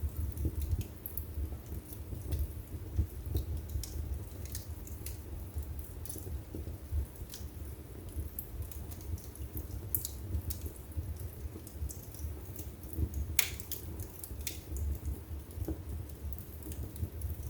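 Wood fire in a fireplace crackling, with irregular sharp snaps over a low steady rumble of the flames; one louder pop about three-quarters of the way through.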